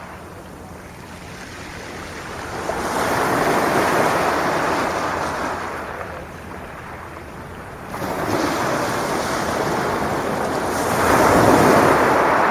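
Sea waves breaking and washing on a shingle beach: three surges of surf that each swell and fade, a few seconds apart.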